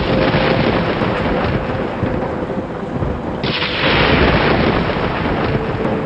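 Thunderstorm: rolling thunder over steady rain, with a louder peal of thunder breaking in suddenly about three and a half seconds in and slowly dying away.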